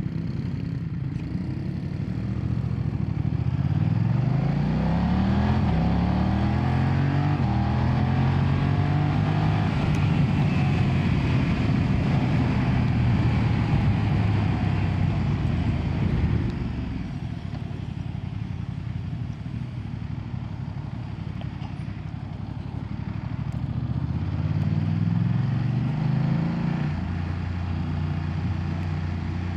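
BMW F900R's 895cc parallel-twin engine pulling up through the gears under acceleration, its pitch rising and dropping back at each gear change. About halfway through it settles lower and steadier for several seconds, then climbs through the gears again near the end.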